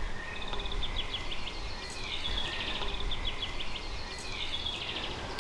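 Outdoor ambience of small birds chirping in quick repeated trills, over a low steady rumble.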